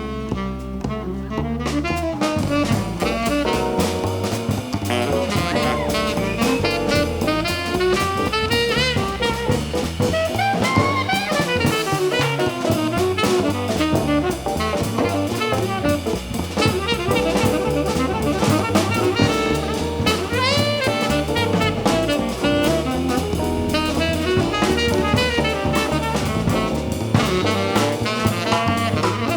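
Jazz combo playing: a melodic lead line over bass, with the drum kit and cymbals coming in about two seconds in and driving on.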